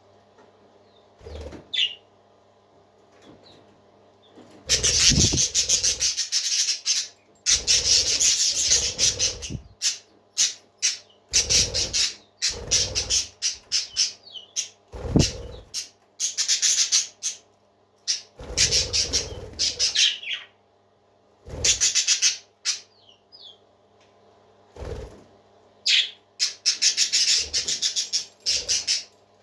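Parakeets chattering and chirping in bursts of rapid warbling, each a second or two long, with short clicks and single chirps between the bursts.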